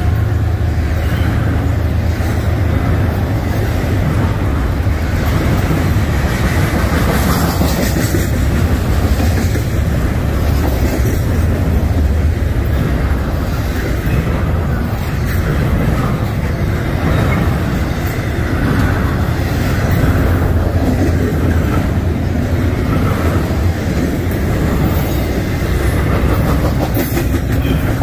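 Freight train cars rolling past, their steel wheels rumbling and clicking over the rail joints.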